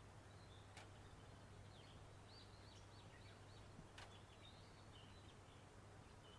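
Faint small songbirds chirping and twittering in quick runs of short high notes, with two sharp clicks and a low steady hum underneath.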